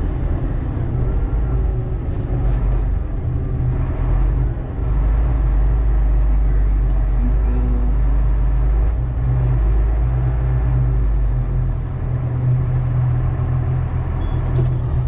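Diesel engine of a loaded Volvo A25G articulated haul truck running under load as the truck drives, a low steady drone that dips briefly about four and a half seconds in.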